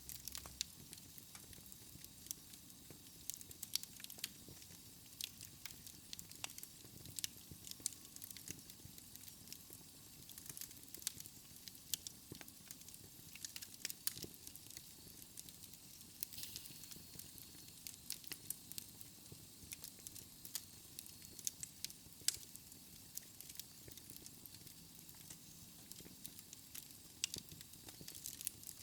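Wood fire in a fireplace burning steadily, with irregular sharp crackles and pops from the logs over a soft low rumble of the flames.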